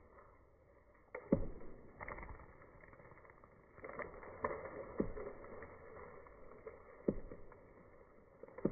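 A felling wedge being driven into the cut of an Aleppo pine: about seven knocks at uneven intervals.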